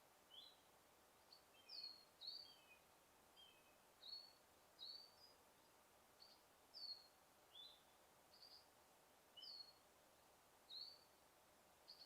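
Forest birds chirping faintly: a string of short, high chirps, some sliding down in pitch, about one every half second to second, over a faint steady hiss of forest ambience.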